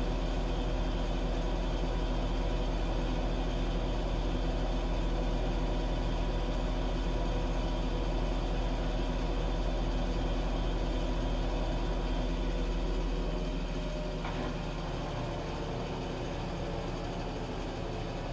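Washing machine running with a steady low hum and whirr; about thirteen seconds in the hum eases down slightly and its low tone changes.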